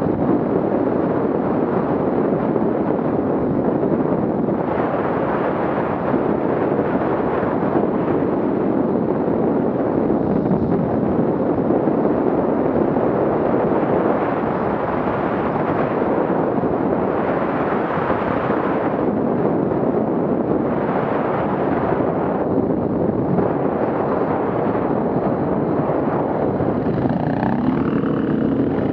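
Off-road vehicle engines running, a dense steady rumble; near the end an engine note rises and falls.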